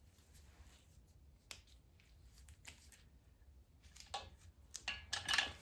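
Scattered light clicks and taps of small parts or tools being handled, sparse at first and coming more often and a little louder near the end.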